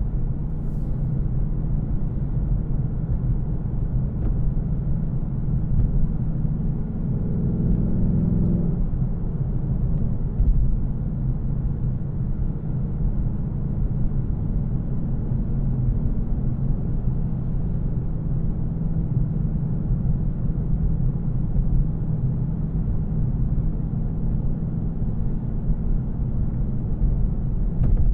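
2024 Mustang GT's 5.0-litre V8 on its factory exhaust, cruising with a steady low drone and road noise. The engine note swells briefly about seven to nine seconds in.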